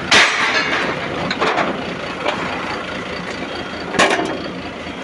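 Boom truck engine idling with the PTO engaged, while the outrigger lock is released and the outrigger pulled out: sharp metal clanks at the start and again about four seconds in, with lighter knocks between.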